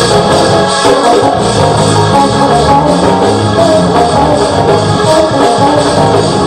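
Loud live music with a steady beat, played by a church band.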